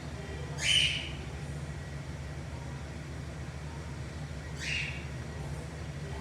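Cockatiel giving two short high calls: a louder one about half a second in and a weaker one near five seconds in, over a steady low hum.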